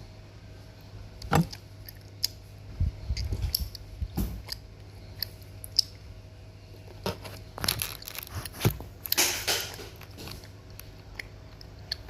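Close-miked eating of candy: scattered crunching, biting and clicking sounds, with a brief rustle about nine seconds in.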